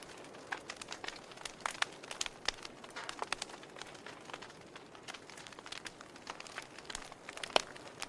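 Wood fire in a fireplace crackling: irregular sharp snaps and pops over a soft hiss, with one louder pop near the end.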